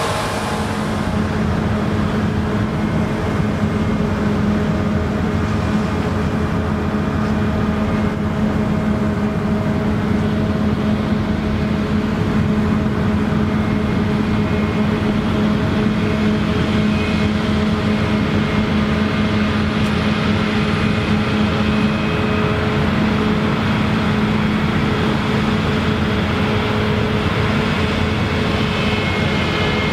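Claas Lexion combine harvester running steadily while cutting rye: a loud, even engine drone with a strong low hum.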